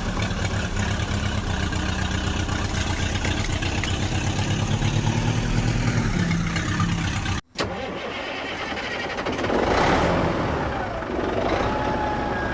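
Tractor engine running steadily with a regular low pulsing. It breaks off abruptly about seven seconds in and resumes as a separate stretch of engine running.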